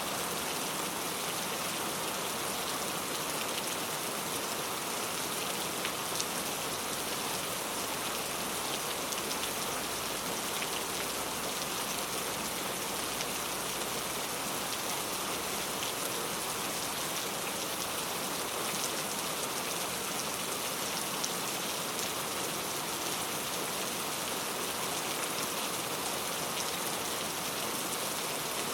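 Very heavy rain falling steadily, a dense even hiss with scattered drops pattering on a surface.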